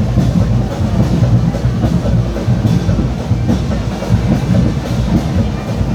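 Carnival street band playing loud, heavy-bassed drums and percussion in a steady rhythm.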